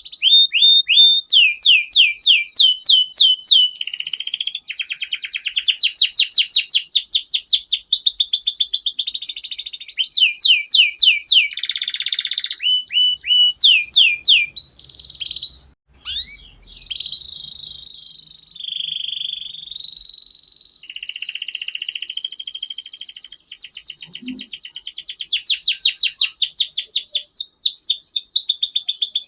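Young domestic canary singing a long, continuous song: fast rolling trills of rapidly repeated notes, some sweeping down in pitch, broken by short steady whistles.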